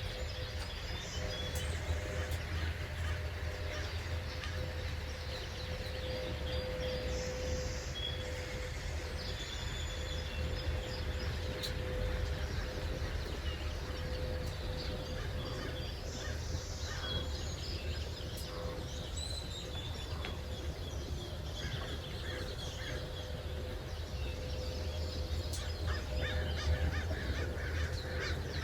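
Several birds chirping and calling at dawn, scattered short notes throughout, over a steady low rumble and a constant faint hum.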